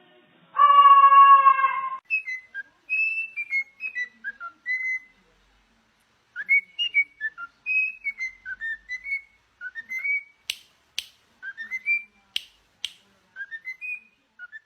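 A pet parrot whistling: one longer held note, then a run of short chirpy whistled notes that slide up and down, with a pause in the middle. A few sharp clicks come in the second half.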